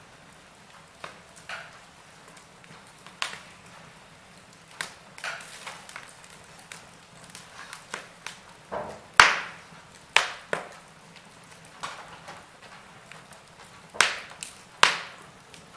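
Wood fire crackling, with irregular sharp pops; the loudest pop comes about nine seconds in, and two more strong ones come near the end.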